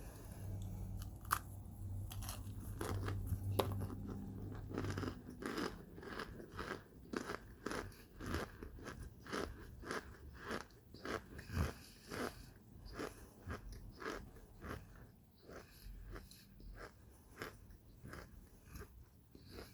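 Chewing and crunching on hard microwaved chunks of Kingsford's cornstarch, a run of crisp crunches about two a second that comes thicker from about five seconds in.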